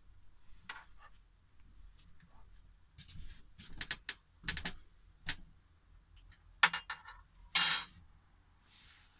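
Dishes and cutlery clinking and knocking as soup is dished up into a bowl: a run of sharp clinks, then louder clatters and a short scrape near the end.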